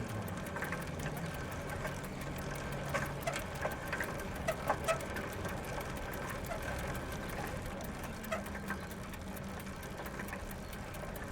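Bicycle rolling on gravel, with the tyres crunching and scattered clicks and rattles from the bike, over a steady hum of road traffic in the background.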